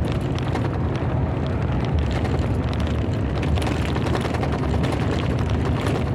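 Thunder rumbling low and steady, with a faint crackle over it.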